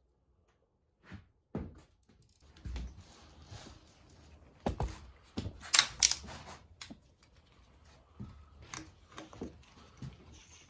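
Metal hand tools and engine parts clinking and knocking as a wrench is handled, with scattered sharp clicks and a louder cluster of metallic clanks about six seconds in.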